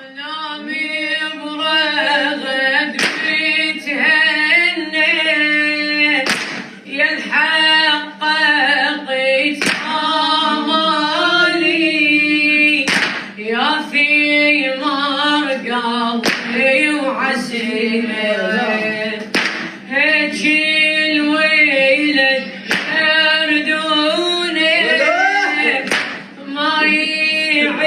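Solo voice singing a Shia mourning elegy (noha/latmiya) in a melismatic, wavering line over a steady low drone. Sharp percussive strikes land about every three seconds.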